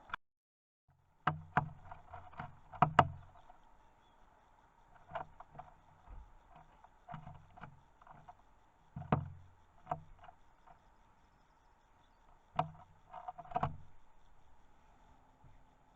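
Bird feeder knocked and tapped by visiting garden birds: sharp taps and hollow thuds in irregular clusters as birds land, hop and peck on the feeder, heard from a camera inside it. A brief dropout to silence comes just after the start.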